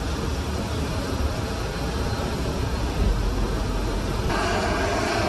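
Jet aircraft engines running: a steady noise with a deep rumble underneath, growing fuller and louder about four seconds in.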